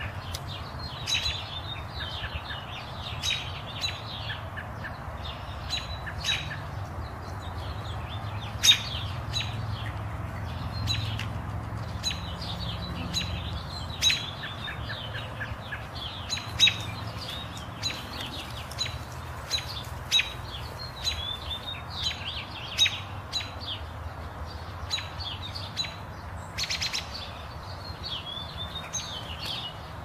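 Wild birds chirping: many short, sharp calls and chirps in quick succession, a few louder than the rest, over a steady low hum.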